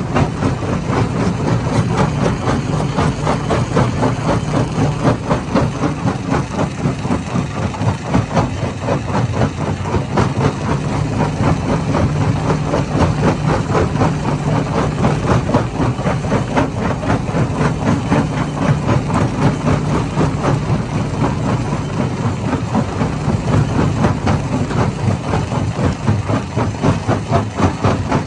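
Hammer-type stone crusher running, its engine drone steady underneath a dense, irregular rattle and knocking of rock being broken.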